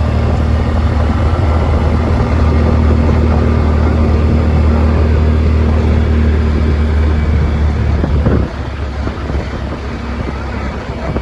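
Yamaha Wolverine side-by-side's engine running steadily as it drives, a loud low drone; about eight seconds in the drone drops away and the sound gets quieter.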